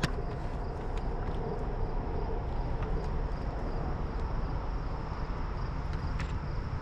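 Steady outdoor background noise, with a couple of faint clicks.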